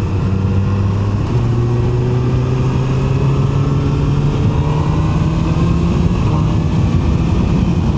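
QJMotor SRK 921 RR's inline-four engine pulling on the move. Its pitch steps up about a second in, then rises slowly as the bike gathers speed.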